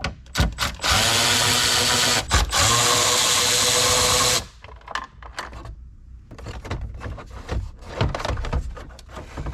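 Cordless power driver running in two spells of about a second and a half and two seconds, loosening the nut on the battery's negative terminal clamp, then a run of light clicks and rattles as the clamp and tool are handled.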